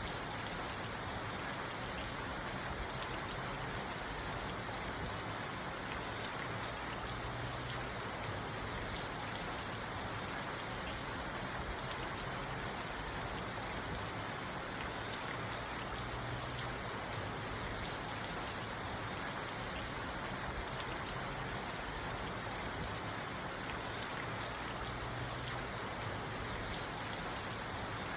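Steady rain falling on a parked car's roof and windows, heard from inside the car.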